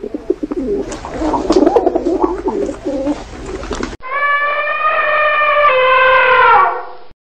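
Pigeons cooing, low and warbling, for about four seconds. After a sudden cut comes one long, held, high call at a single pitch that steps down slightly and falls away near the end before stopping.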